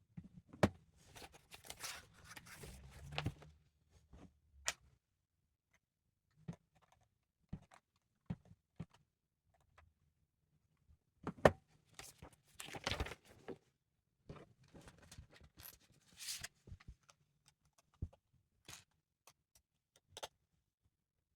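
Lego pieces being handled and snapped together: scattered sharp plastic clicks, with short stretches of rustling near the start, about 12 to 13 seconds in, and again a few seconds later.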